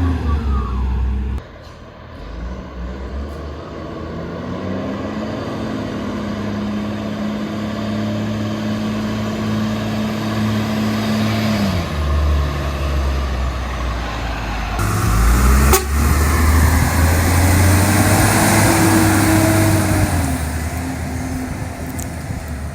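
Cummins diesel truck engine running, its pitch holding steady for several seconds, then dropping and later rising and falling again as the revs change. It grows louder about two-thirds of the way through.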